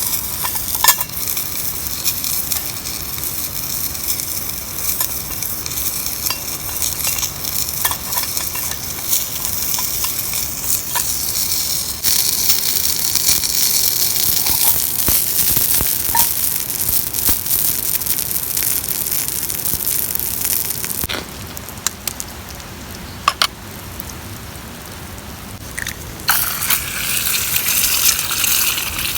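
Food frying on a hot iron plate over a wood fire, a steady sizzle with scattered sharp clicks. The sizzle drops away for a few seconds about two-thirds of the way through, then comes back.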